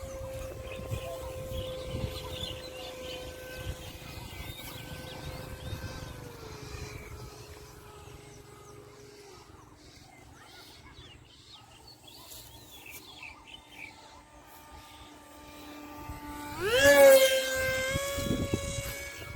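Motor of a radio-controlled model plane whining steadily, dropping in pitch twice as the throttle is eased back, then surging sharply up to its loudest near the end and holding at a higher pitch. Wind rumbles on the microphone.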